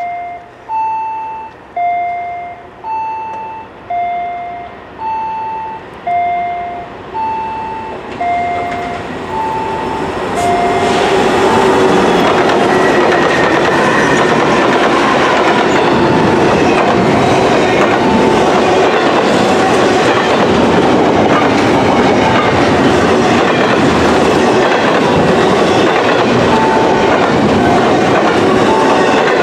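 A freight train approaching and passing close by. For the first ten seconds or so a two-note warning chime alternates low and high about once a second; then the train reaches the spot and its passing cars make a loud, steady rumble and clatter of wheels on rail, with the chime faint beneath it.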